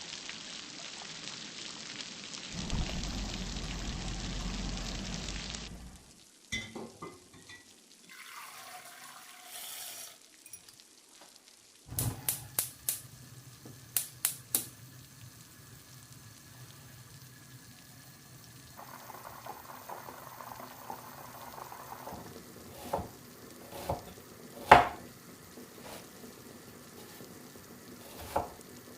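Home kitchen cooking sounds: a steady rush of running water for the first few seconds, then sharp clicks and clinks of utensils and cookware, with a soft sizzle of frying partway through.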